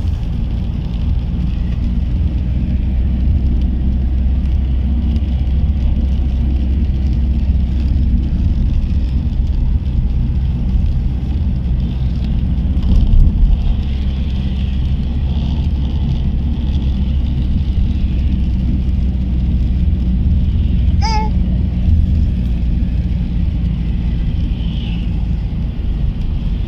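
Car driving on rain-wet roads, heard from inside the cabin: a steady low rumble of engine and tyres, with a brief squeak about 21 seconds in.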